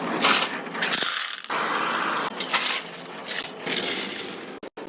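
Metalworking machinery running in short bursts that change abruptly from one to the next, with a brief high whine about two seconds in.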